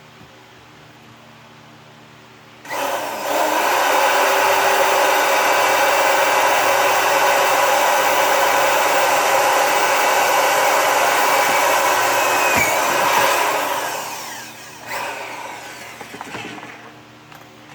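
A handheld electric power tool switches on about three seconds in, runs at a steady speed for about ten seconds, then is switched off and spins down with a falling whine.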